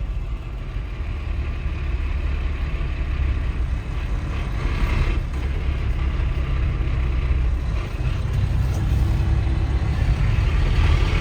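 Truck engine and road noise heard from inside the cab while driving, a steady low rumble that grows a little louder near the end.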